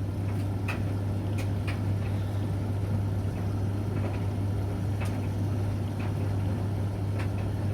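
Laundry machines running: a steady mains-pitched motor hum over an even rush of noise, as the Beko washing machine fills with water at the start of its wash and the Bosch condenser tumble dryer turns. A few light irregular clicks sound through it.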